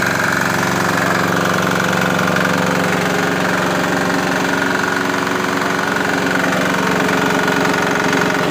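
Swan air compressor's 6 hp 170F single-cylinder diesel engine running steadily, driving the compressor pump.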